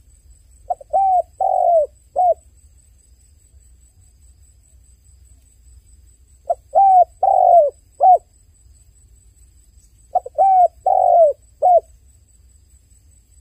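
A dove cooing: three phrases of four notes each (a short note, two longer ones, then a short one), each phrase lasting under two seconds, with about four seconds between phrases.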